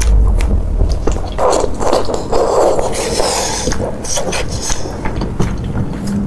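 Close-miked eating sounds: chewing with many short wet clicks and smacks. There is a longer, denser stretch of noisy eating sound from about a second and a half in to about four seconds.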